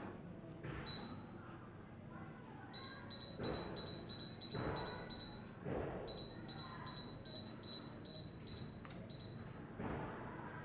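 Short high electronic beeps, one about a second in, then quick runs of about three a second, as air conditioner remote buttons are pressed in turn.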